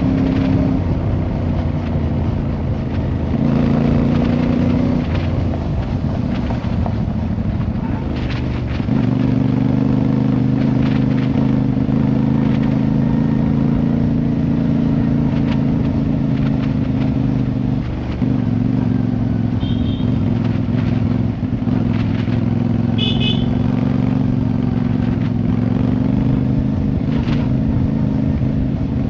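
Motorcycle engine running while riding, a steady note that shifts in pitch in steps a few times early on and then holds.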